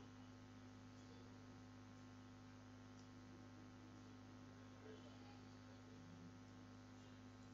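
Near silence with a low, steady electrical hum.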